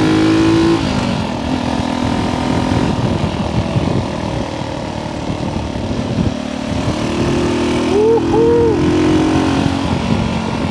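Honda C200's small single-cylinder four-stroke engine pulling the bike along on the road, its pitch climbing and then dropping at a gear change about a second in, with rushing wind noise, before revving up again near seven seconds in.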